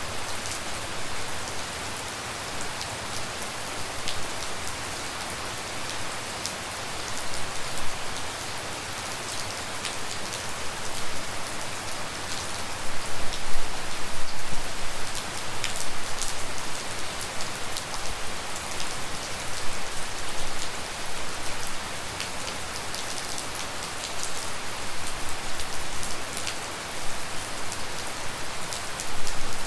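Steady tropical rain falling, with many individual drops pattering on nearby surfaces; the downpour swells briefly a few times.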